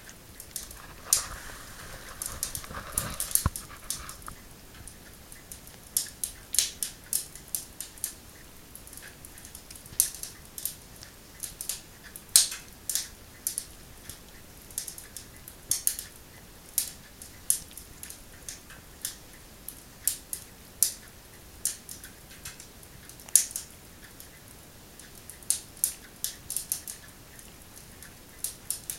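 A cat grooming its face: short, sharp, wet licking clicks coming irregularly in little runs.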